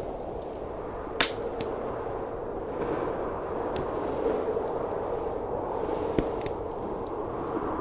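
Wood fire crackling, with scattered sharp pops (the loudest about a second in), over a steady howl of blizzard wind.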